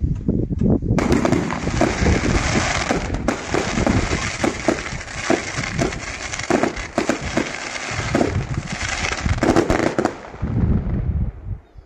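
Aerial fireworks bursting: a rapid string of sharp bangs over a continuous crackle, dying away near the end.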